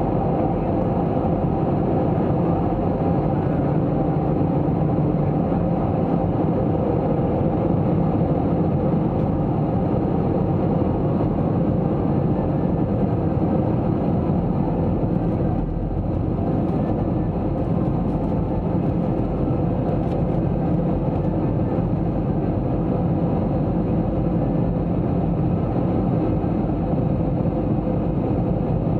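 Steady cabin noise of an Airbus A321-200 in flight: a deep, even rush of airflow and engine drone with a faint steady hum.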